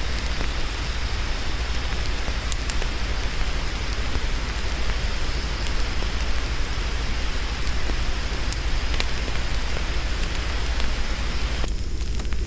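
Steady rushing water with a deep low rumble and a few faint sharp ticks. About a second before the end it cuts abruptly to a thinner sound with sharp crackles.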